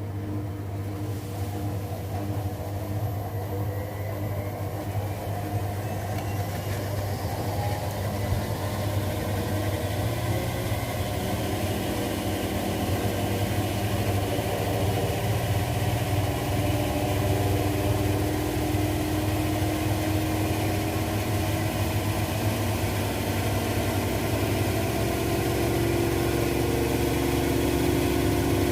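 Washing machine in its spin cycle: a steady low motor hum with a whine that slowly rises in pitch and grows louder as the drum speeds up.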